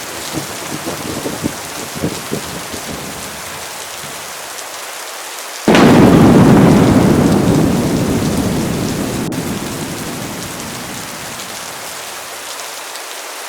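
Heavy rain falling steadily during a thunderstorm. A low rumble of thunder dies away over the first few seconds, then about six seconds in a sudden loud thunderclap breaks and rolls away slowly.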